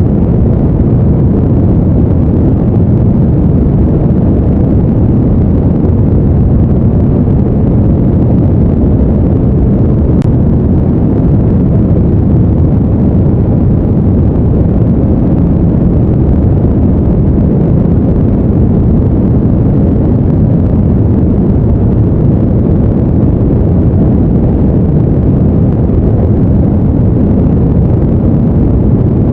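Steady, deep noise in the manner of brown noise for sleep, even throughout, with no tones, rhythm or changes.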